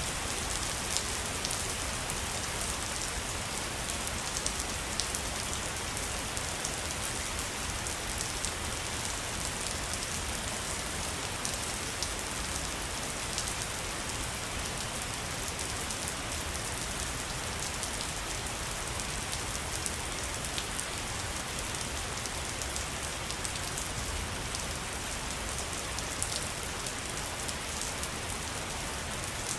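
Waterfall: water falling and splashing in a steady, even rush, with a low rumble under it and a patter of fine droplet splashes on top.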